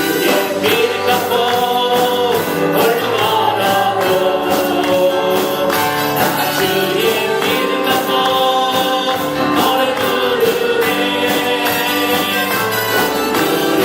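Worship song sung by a choir or congregation with band accompaniment: held sung notes over a steady beat with tambourine-like hits.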